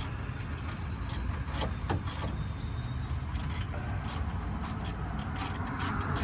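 Hand wrench work on a pickup's bumper mounting nuts: scattered sharp clicks and taps over a low, steady rumble.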